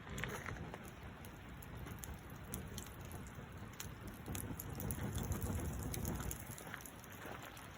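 Wood fire crackling: scattered small pops and ticks over a low rushing noise, which swells for a moment about two-thirds of the way through.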